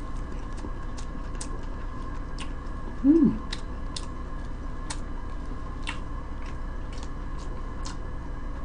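Close-miked chewing: irregular soft mouth clicks and smacks while eating, with a short hummed "mm" about three seconds in, over a faint steady electrical hum.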